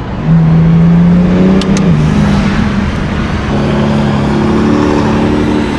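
Car engine running loud under throttle, with a dense engine tone over road noise. Its pitch steps down once about two seconds in, then holds.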